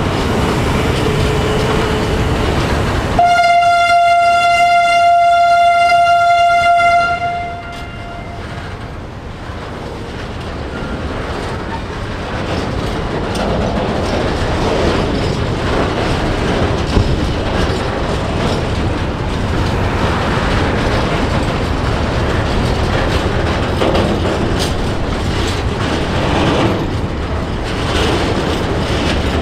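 Train horn: one long single-tone blast lasting about four seconds, starting a few seconds in. Around it, the steady rumble and wheel clatter of a train running on the track.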